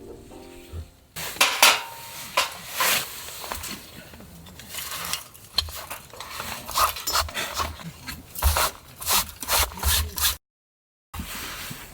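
A run of irregular clinks, knocks and rubbing scrapes of hard objects being handled, after background music fades out about a second in; the sound cuts out briefly near the end.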